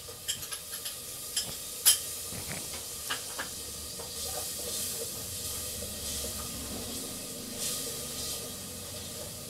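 Spice masala sizzling in ghee in a pot while a metal spatula stirs and scrapes; a few sharp taps of the spatula against the pot in the first few seconds, the loudest about two seconds in, then a steady sizzle as the yogurt is stirred in.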